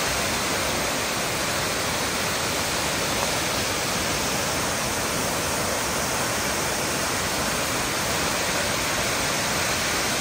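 Tortum Waterfall's falling water: a steady, even rush that does not change.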